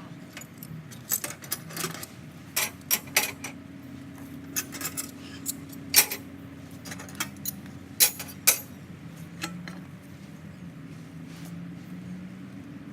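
Small metal objects clinking and clattering in a scattered run of sharp clinks, loudest about six and eight seconds in, over a steady low hum.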